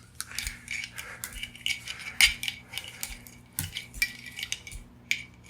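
Irregular light clicks and clinks of a tangled charger cord and its plastic plugs being handled and worked loose, with a sharper knock about two seconds in.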